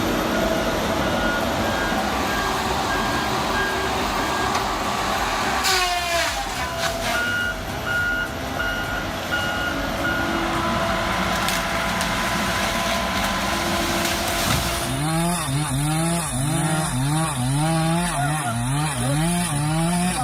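Heavy machinery engine running under load, with the intermittent tone of a reversing or warning beeper. A falling whine sounds about six seconds in. Near the end the engine's pitch rises and falls over and over, about three times every two seconds.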